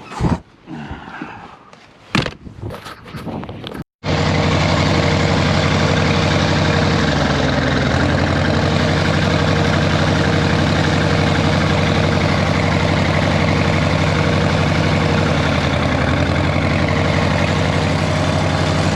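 A few clicks and knocks of hand-tool work, then after about four seconds the 1947 Case Model S tractor's four-cylinder engine running steadily, missing on number three cylinder.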